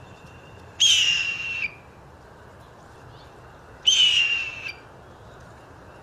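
A bird's loud, raspy, hawk-like scream, given twice, each call just under a second long and slightly falling in pitch. It is either a red-tailed hawk or a blue jay imitating one; an expert listener leans to blue jay because the calls are short.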